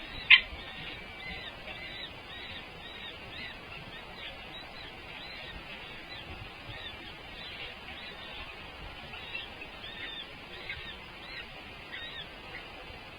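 Birds calling: a steady stream of short, high, repeated chirps. A single sharp, loud sound comes about a third of a second in.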